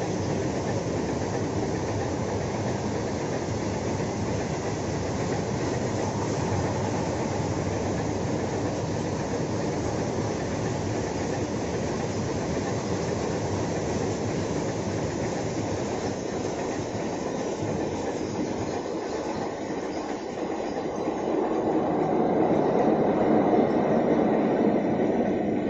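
Very long freight train of open-top wagons rolling past at speed, a steady rumble of wheels on rail. About 21 seconds in it grows louder as a locomotive in the middle of the train passes.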